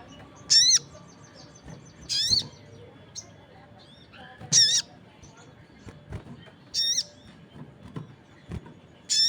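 Sogon bird giving short, loud, high warbled calls with a fast wavering pitch, five of them about two seconds apart, with faint chirps of other birds between them.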